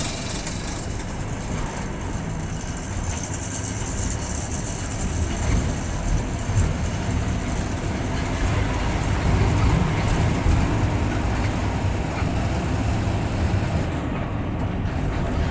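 Bus in motion, its engine and road noise a steady rumble heard from inside the driver's cabin.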